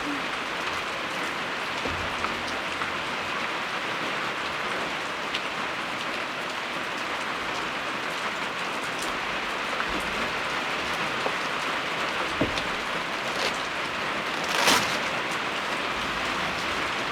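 Steady rain pattering on a surface, an even hiss with scattered drop ticks, and one brief louder splash of noise near the end.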